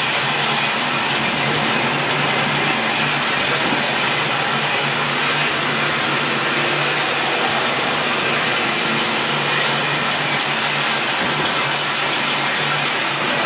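Steady hissing rush with a low hum underneath from Union Pacific 844, a steam locomotive standing with its fire lit and steam up.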